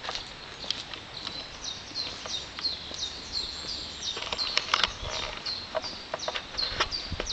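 A bird calling with a rapid series of short, high, falling notes, about three a second, over irregular crunching footsteps on a path.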